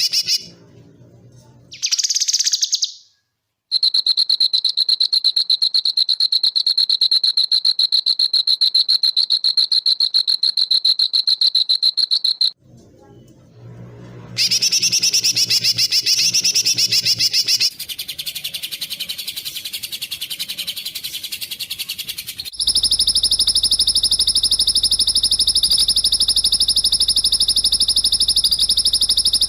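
Spliced recordings of high-pitched insect trills and songbird calls for training songbirds. A steady, rapidly pulsing high trill runs for about nine seconds and cuts off, a short warbling bird phrase follows, and about two-thirds of the way in another steady high trill starts abruptly.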